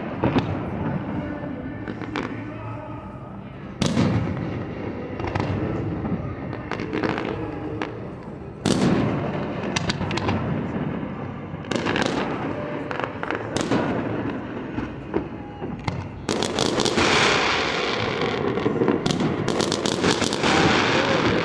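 Aerial fireworks bursting: single loud booms a few seconds apart, then from about two-thirds of the way in a dense volley of rapid bangs and crackles.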